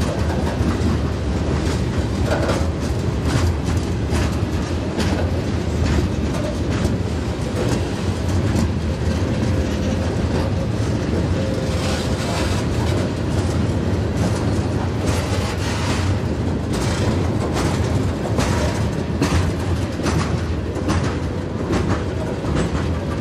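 Freight train of loaded rock hoppers rolling by with a steady low rumble. The wheels click repeatedly over rail joints.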